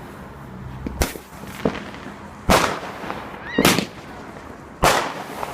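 Fireworks bursting: a run of sharp bangs, four loud ones and a fainter pop, about one a second, each trailing off in an echoing rumble.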